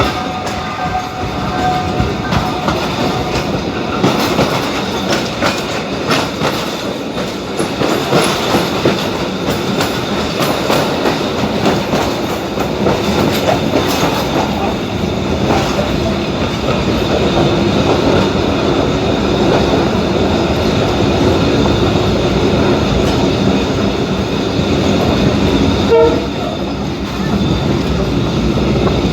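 Passenger train running, with wheels clacking over rail joints as heard from inside the carriage. A brief tone sounds near the end.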